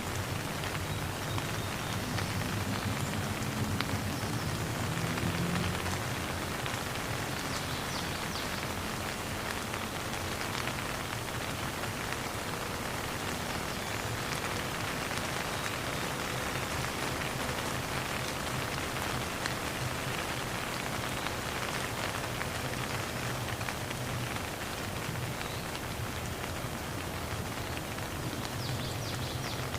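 Steady rain falling on a surface, a dense patter of drops, with no thunder.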